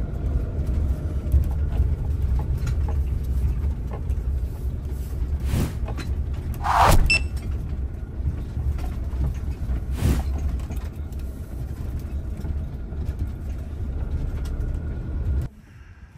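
Steady low rumble of a vehicle on the move, heard from inside, with a few knocks and a brief squeak about halfway through; it cuts off suddenly near the end.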